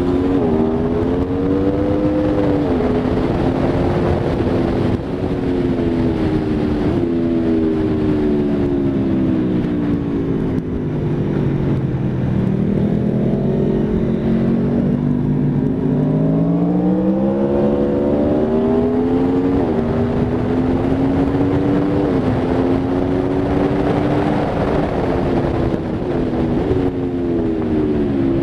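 Aprilia Tuono V4 RR's V4 engine at track speed. The revs climb and drop sharply several times as it shifts up through the gears, fall away as it slows for corners, and hold low for a few seconds midway before pulling hard again.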